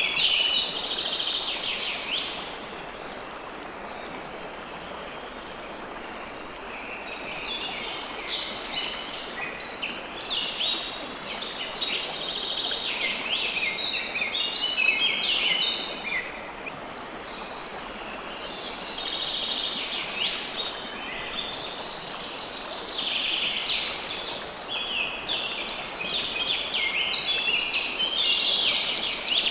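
River water flowing steadily, with birds chirping rapidly over it in bursts that fade for a few seconds after the start and return repeatedly.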